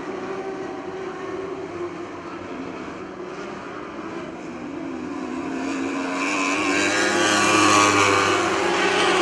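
Several 600cc motorcycle-engined mini sprint cars racing at high revs, engines growing louder as the pack comes closer, loudest about eight seconds in.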